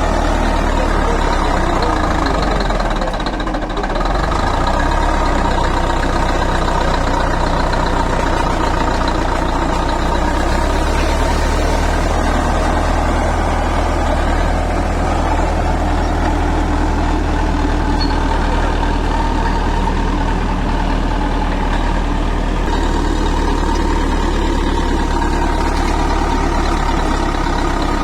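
Heavy construction machine's diesel engine running steadily at a low, even pitch, dipping briefly about three seconds in.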